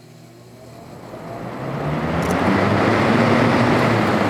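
Vintage Hunter model 11027 seven-blade box fan starting up on high, its motor freshly cleaned and oiled: the motor hum comes in with a faint rising whine as it spins up, and the rush of air builds over about two seconds, then holds steady.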